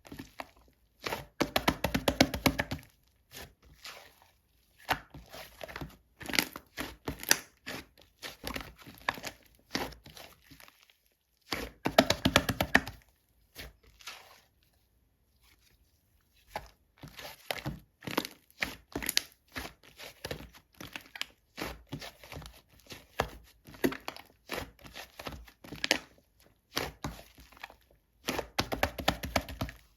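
Slime being squished and pressed by hand: a crackle of small wet pops and clicks, with louder, denser bursts about two seconds in, around twelve seconds and near the end.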